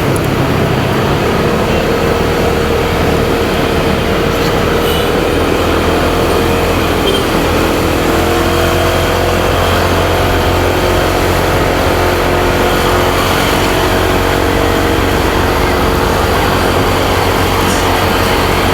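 Motorcycle engine running on the move, with steady wind rush on the microphone; the engine note drifts up and down a little as the speed changes.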